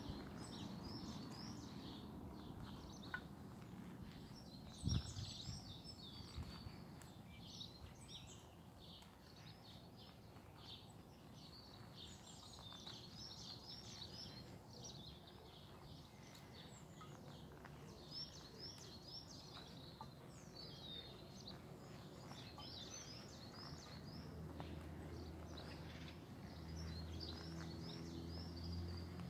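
Small birds chirping and twittering in many short, high calls throughout. A single low thump about five seconds in, and a low steady hum that comes in near the end.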